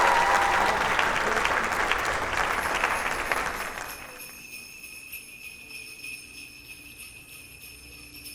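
Applause fading out over about the first four seconds, then jingle bells ringing more quietly and steadily.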